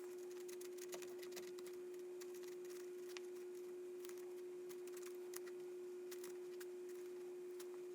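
A steady, single-pitched hum with faint, irregular ticks and scratches over it.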